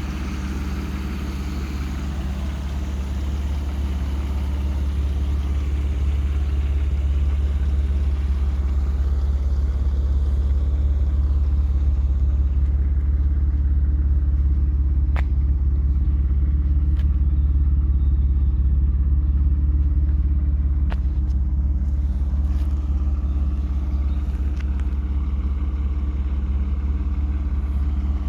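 BMW E36 328i's 2.8-litre M52B28 inline-six with single VANOS and stock exhaust, idling steadily with a deep, even rumble. It gets a little louder over the first few seconds, and a few faint ticks sound around the middle.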